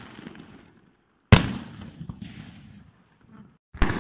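Aerial fireworks going off: one sharp bang about a second in that dies away slowly, then a quick run of bangs starting near the end.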